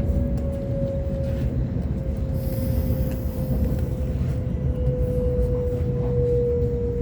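Waratah electric train running, heard from on board: a steady low rumble of wheels on track under a single steady motor whine that slowly falls in pitch.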